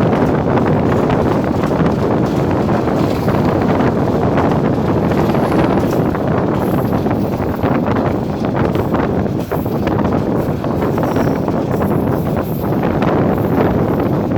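Passenger train running on the line, heard from aboard as a loud, steady rumble, with wind buffeting the microphone.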